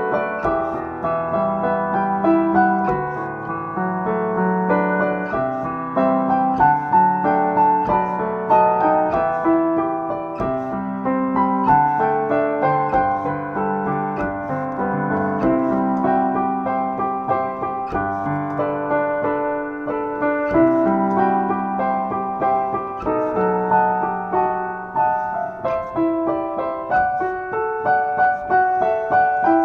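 Solo piano playing a pop song, a melody in the upper register over sustained left-hand chords.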